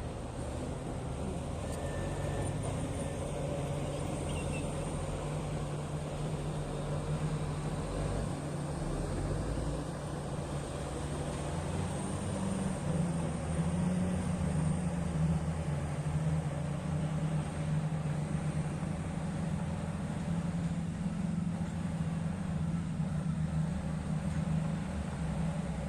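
Heavy mining machine's diesel engine running steadily, its pitch rising about twelve seconds in and staying higher as it works harder.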